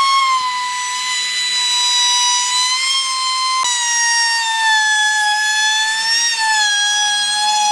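High-pitched power tool whine, one steady tone with a pitch that sags and recovers slightly as it works, changing abruptly a little over three and a half seconds in.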